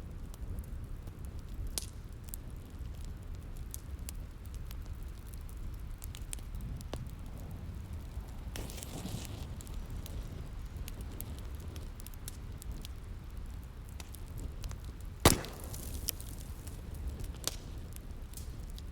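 Wood fire crackling: scattered sharp snaps and pops over a steady low rumble, with a brief hiss about nine seconds in and one loud pop about fifteen seconds in.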